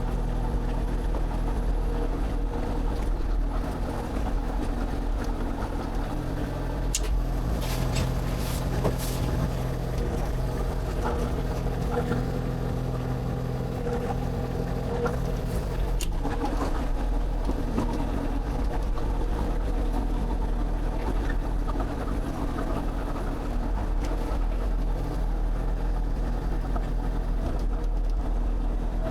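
Excavator diesel engine running steadily, with a few sharp metallic knocks about a quarter of the way in and again about halfway through.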